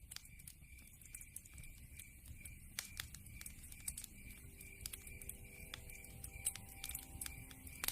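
Wood fire in a fireplace crackling, with irregular sharp pops and snaps over a low rumble of burning logs.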